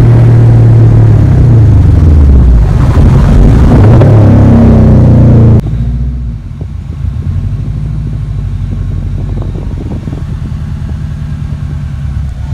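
Loud car engine and exhaust under acceleration, its pitch dipping and then climbing again. About five and a half seconds in it cuts off abruptly to a quieter, steady engine drone.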